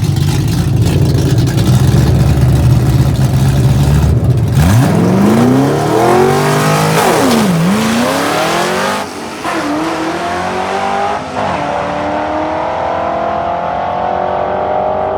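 Drag-race pass by a 5.0 V8 Fox-body Mustang running open exhausts dumped behind the doors. The engine rumbles loud and low on the line for about four seconds. It then launches, its pitch climbing fast, falls sharply at a gear change about three seconds later, dips at another shift two seconds after that, and pulls away rising steadily as it fades.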